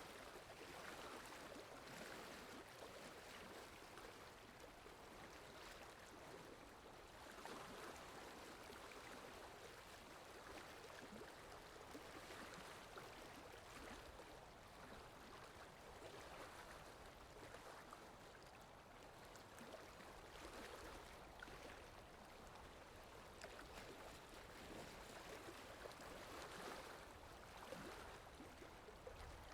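Running water of a stream or falls: a faint, steady rushing that swells and eases every few seconds.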